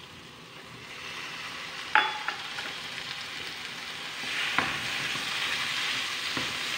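Squid rings going into a nonstick pan of hot onion-tomato masala and frying, with a sharp ringing knock on the pan about two seconds in. The sizzle grows louder from about four seconds in as a spatula stirs the squid through the masala.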